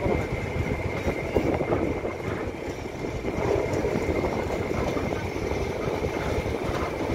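Diesel passenger train running, with a steady rumbling rattle of wheels on track and a faint steady high whine.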